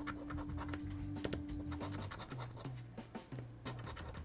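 A coin scraping the silver coating off a lottery scratch-off ticket in many quick, uneven strokes, with soft background music under it.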